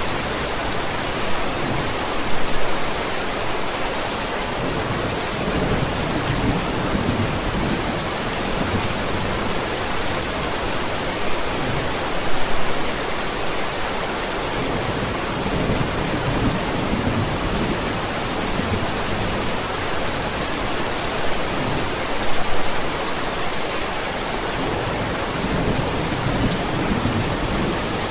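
Steady heavy rain with low rumbles of thunder. Brief louder swells come about every ten seconds.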